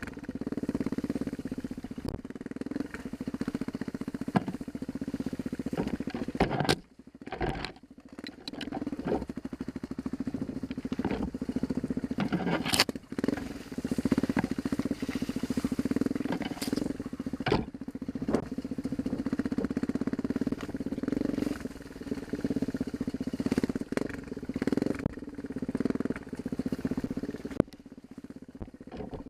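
Dirt bike engine running under varying throttle on a trail ride, with scattered knocks and clatter. The engine sound drops away briefly about seven seconds in, then picks up again.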